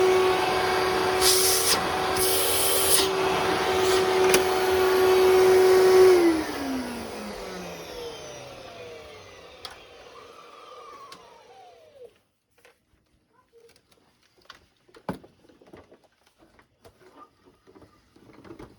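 1996 Fantom Thunder vacuum cleaner's motor running with a steady whine, with two brief bursts of higher hiss. It is switched off about six seconds in and winds down, falling in pitch and fading over several seconds. Small clicks follow. The owner says the motor runs kind of rough.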